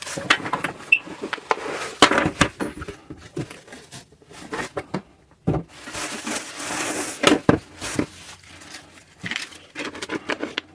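Packaging being opened and handled: irregular rustling of wrapping with scattered knocks and taps, pausing briefly about halfway through.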